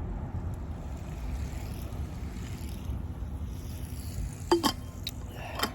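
Steady low outdoor rumble with wind buffeting the microphone, with a few sharp clicks and knocks about four and a half seconds in and again near the end.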